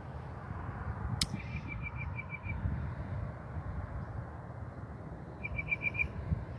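A bird singing: a quick run of about eight evenly spaced notes at one pitch, and near the end a shorter run of about five, over a steady low rumble. A single sharp click comes just before the first run.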